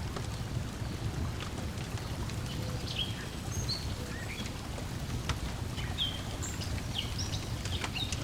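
Wood fire crackling with scattered sharp pops, over a steady low wash of lake water lapping at the shore. Several short bird chirps come in around the middle.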